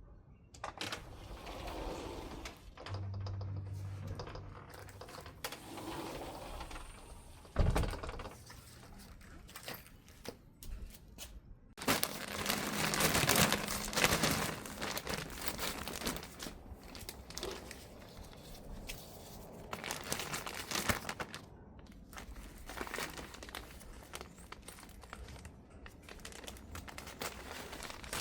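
Handling noises: crinkling and rustling with scattered clicks and knocks, a single thump about eight seconds in, and a louder stretch of rustling a little before halfway that lasts a few seconds.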